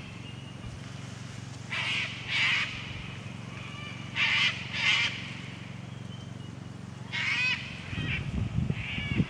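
Loud bird calls in three bursts: a pair of calls about two seconds in, another pair about four and a half seconds in, and one more near seven seconds. Fainter whistling calls from other birds come in between.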